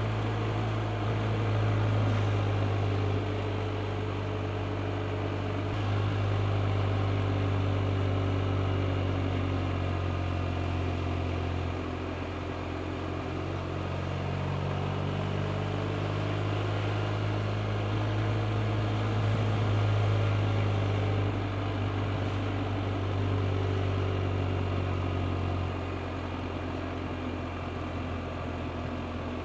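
BMW R 1250 RT's boxer twin engine running while riding, its note shifting up and down several times with throttle and gear changes.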